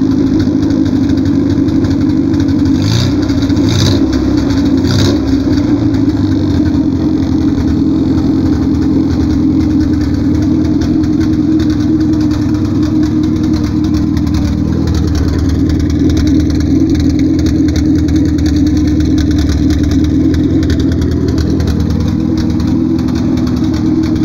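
Carburetted Volkswagen AP 1.6 four-cylinder engine running steadily, just after a carburettor repair kit was fitted. Its revs rise briefly a few times about three to five seconds in, then it settles back to its steady run.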